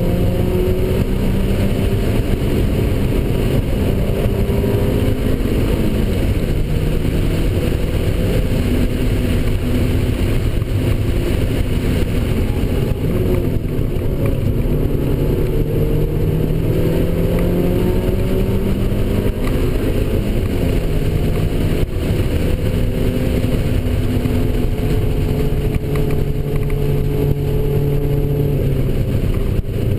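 NC Mazda MX-5 Miata's four-cylinder engine heard from inside the cabin at track pace, its pitch repeatedly rising through the revs and dropping again with gear changes and braking, over steady road noise.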